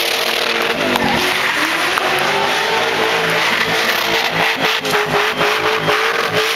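Drift car's engine revving hard and held at high revs while the car slides sideways in a cloud of tyre smoke. The revs dip and climb again about a second in, then hold high with some flutter near the end.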